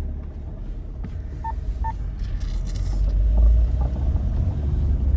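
A car driving: a steady low rumble that swells briefly about three seconds in. Two short beeps come about a second and a half in.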